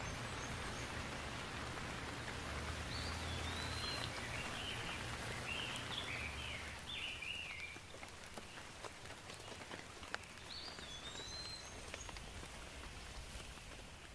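Steady rain falling, with scattered drip ticks; the rain eases slightly about halfway through. A bird calls in short chirping phrases from about three to eight seconds in, and once more a few seconds later.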